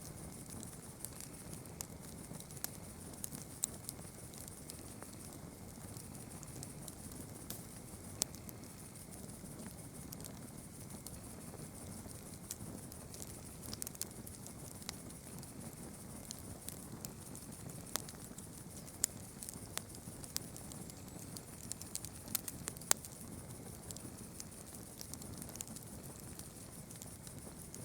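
Campfire crackling, with irregular sharp pops and snaps scattered throughout over a low rumble and a steady high hiss.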